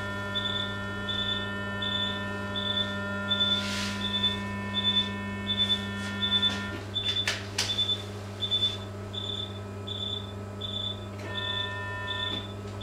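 Operating-room patient monitor giving a short high beep about one and a half times a second, a pulse tone, over a steady electrical hum of surgical equipment. A second steady multi-tone electronic hum drops out about halfway and comes back near the end, with a few sharp clicks.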